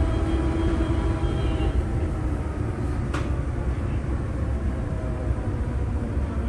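Airport automated people-mover train running: a steady low rumble with a faint electric-motor whine that fades about one and a half seconds in, and a sharp click about three seconds in.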